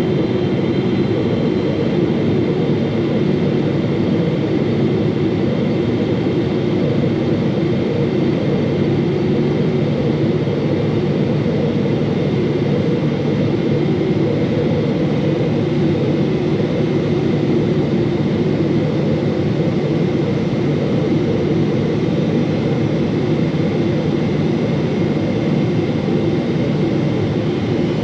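Steady cabin noise inside a Boeing 777-300 airliner: a constant rush of jet engine and airflow noise with a faint high steady whine, unchanging throughout.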